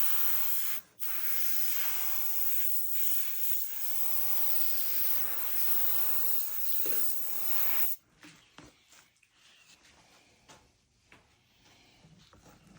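Paint spraying onto a scale-model truck body: a steady spray hiss, broken briefly about a second in, that stops about eight seconds in, leaving only a few faint clicks.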